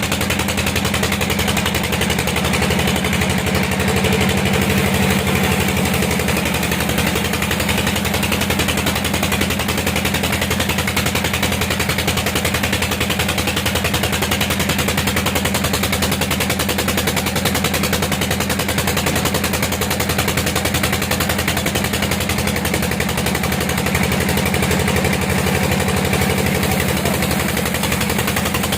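Sawmill machinery running steadily: a low engine drone under a fast, even rattle, with no let-up.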